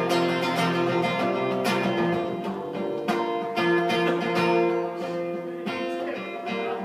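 Acoustic guitar strummed in an instrumental break between sung verses, chords struck at an even pace.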